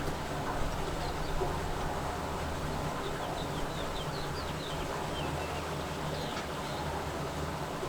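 Wind rumbling and buffeting against the microphone, steady throughout. Faint short bird chirps come a few seconds in.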